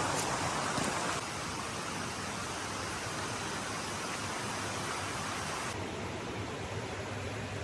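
Steady rushing of running water. Its tone shifts abruptly about a second in and again later.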